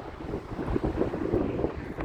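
Wind buffeting the microphone: a low, uneven rumble that rises and falls with the gusts.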